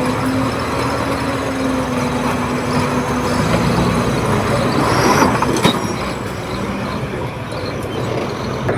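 Komatsu D31P bulldozer's diesel engine running steadily under work, with a couple of short metallic knocks about five and a half seconds in.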